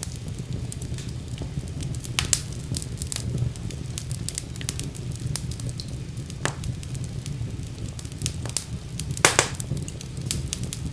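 Fireplace fire crackling over a steady low rumble of the flames, with frequent sharp pops; the biggest pops come about two seconds in and near the end.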